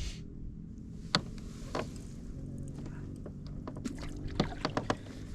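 Sharp knocks and clicks of gear being handled aboard a fishing kayak, one about a second in and a quick run of them near the end, over a low steady hum.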